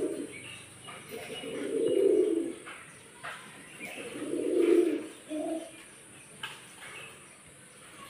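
Low, hollow cooing notes from a bird, each about a second long and coming roughly every two seconds. The last is followed by a short two-part note, with a few faint high chirps.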